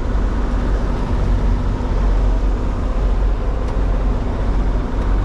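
A small sailing yacht's engine running steadily under way through a swell, mixed with a heavy, uneven low rumble of wind buffeting the microphone.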